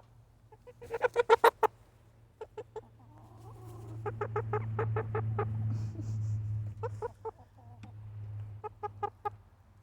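Chickens clucking close by in quick runs of short clucks, several bursts, the loudest about a second in. A low hum swells and fades in the middle.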